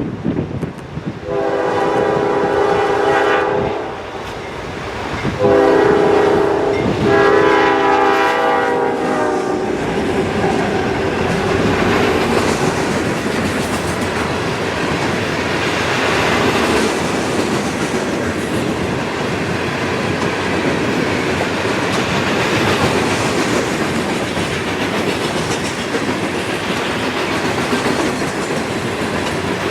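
Canadian National freight locomotive's air horn sounding two long blasts, then the train rolling past with steady wheel and rail noise and clickety-clack from the cars.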